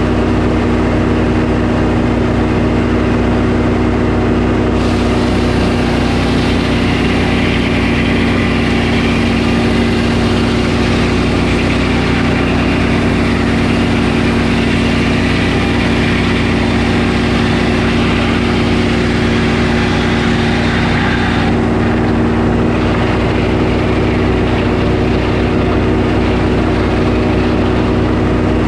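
Sawmill engine running steadily under load as the mill saws through a pine log. A brighter, hissing layer joins about five seconds in and drops away again about twenty seconds in.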